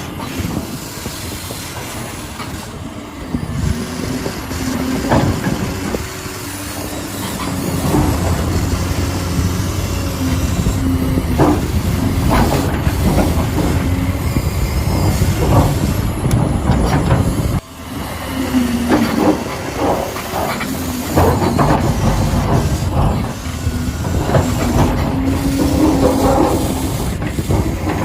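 Huina 1593 radio-controlled construction vehicle working, its small electric motors whining in short stop-start bursts over gear and metal clatter and clicks.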